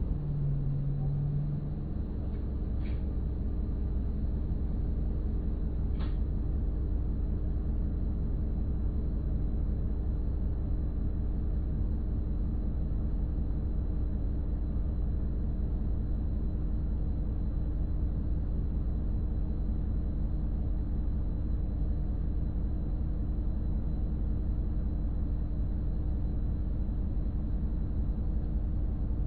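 The diesel engine of an Isuzu Erga city bus, whose engine note falls during the first couple of seconds and then holds steady over a low rumble. Two faint clicks come about three and six seconds in.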